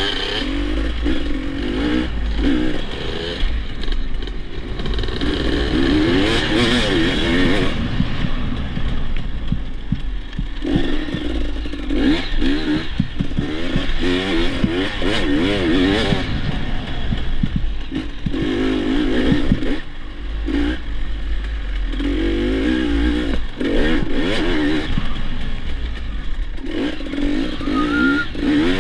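Dirt bike engine being ridden hard, revving up and down again and again as the throttle is opened and rolled off, with brief drops between pulls. Clattering knocks and a steady low rumble run underneath.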